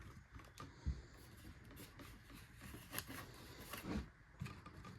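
Faint handling noises, a few soft clicks and rubs, as fresh oil is smeared by hand onto the rubber seal of a new oil filter.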